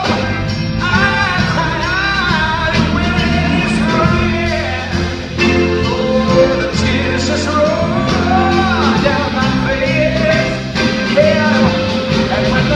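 Blues-rock band music with bass and drums and a lead melody line that bends and slides in pitch.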